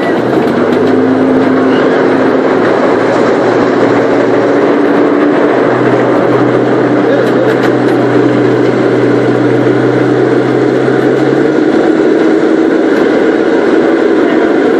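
Small zoo train running along its track: a steady, loud drone of the moving train with a low engine hum that rises slightly in pitch.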